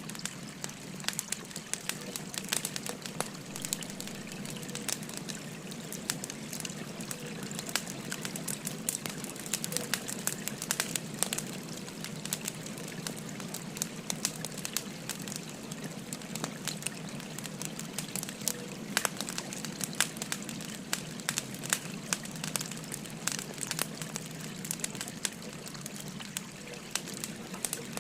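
Wood fire crackling, with frequent sharp pops and snaps, over the steady rush of a flowing river.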